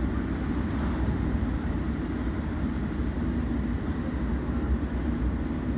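Moving passenger train's steady low running rumble, heard from aboard the train.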